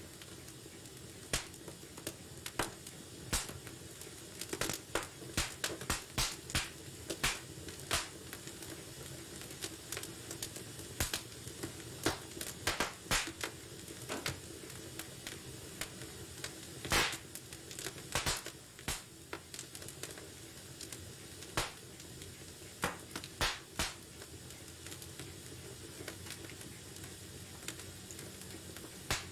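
Wood fire burning in a fireplace: a steady low hiss with irregular crackles and sharp pops, a few louder pops about two-thirds of the way through.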